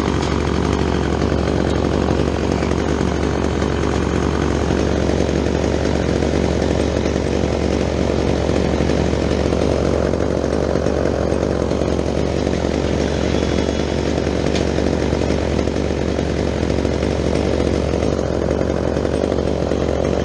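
Gas chainsaw running steadily at high speed, without letting up; the sound cuts off abruptly just after the end.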